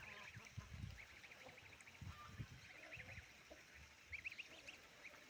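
Faint bird calls: quick runs of short, high-pitched chirps repeated many times a second, with scattered low muffled thumps.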